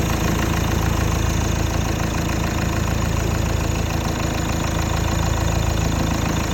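Citroën C4 SpaceTourer's 1.5 HDi four-cylinder turbodiesel idling steadily.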